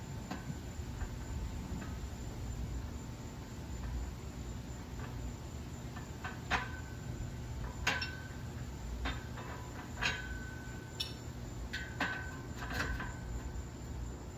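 Light metallic clinks, each with a short ring, coming every second or two in the second half, over a steady low hum: weight plates shifting on a loaded barbell during squat reps.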